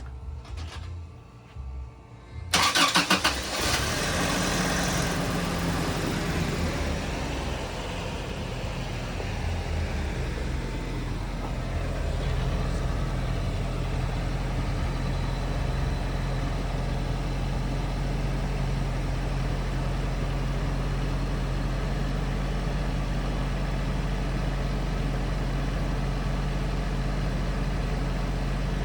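1995 Toyota Pickup's 22RE 2.4-litre four-cylinder engine on a cold start: it cranks briefly about two and a half seconds in and catches within a second. It then settles into a steady idle.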